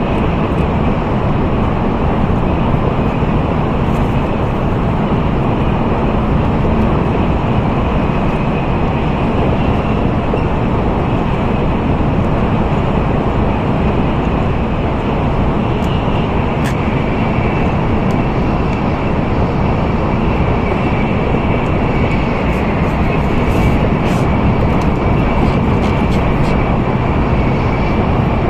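Steady running noise of an N700A Tokaido Shinkansen at speed, heard inside the passenger cabin: an even rushing rumble with a faint high tone above it.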